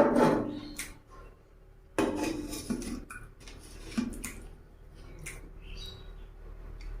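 Eating at a table: plates and utensils clatter and clink, with a loud clatter at the start, another about two seconds in, and scattered small knocks and clicks after.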